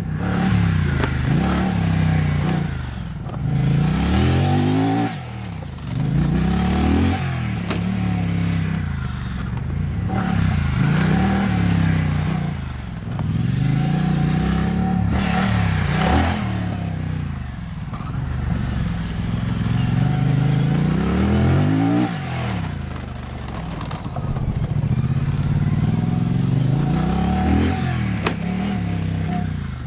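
Off-road motorcycle engine under hard throttle, revving up and dropping back again and again, its pitch climbing for a few seconds and then falling off sharply.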